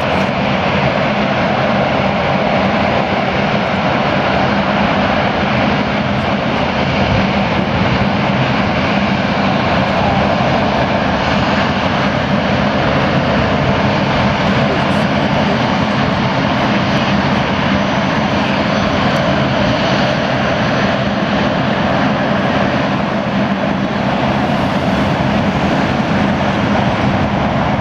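Jet engines of an Airbus A380, Rolls-Royce Trent 900s, running with a loud, steady noise that holds level throughout.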